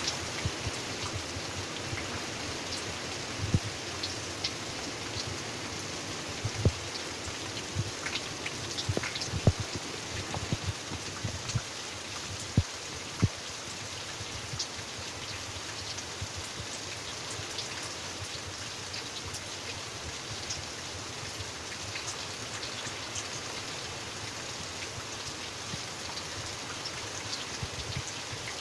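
Steady rainfall, a continuous hiss with individual drops tapping and dripping onto a surface; the louder drips come mostly in the first half.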